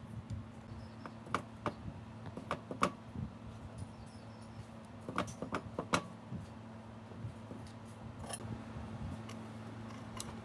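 Small metal parts clinking and tapping as they are handled: a scatter of short, sharp clicks, some in quick clusters, over a steady low hum.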